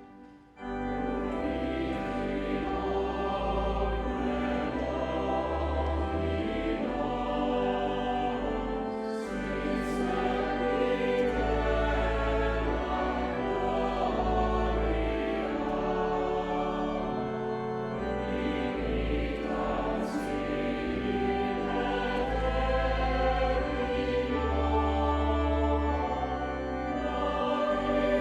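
A choir singing sacred music with organ accompaniment: long held chords over deep bass notes. It starts about half a second in, after a brief break.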